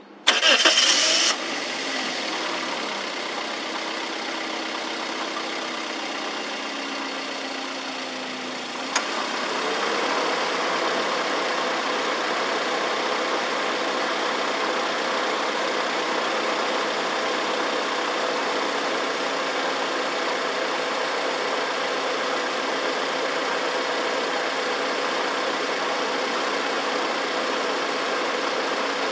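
Toyota bB's engine being started: a short burst of cranking as it fires and catches, then a steady idle. About nine seconds in there is a sharp click, after which the idle runs a little louder and steady.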